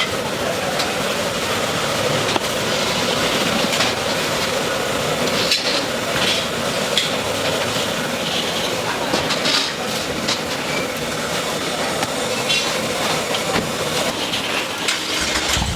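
Steady background noise of a street-food stall with scattered sharp knocks and clatter.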